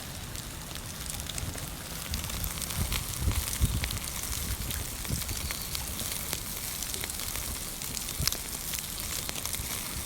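Wood fire crackling in a small tabletop fire pit, a steady crackle with many scattered sharp pops.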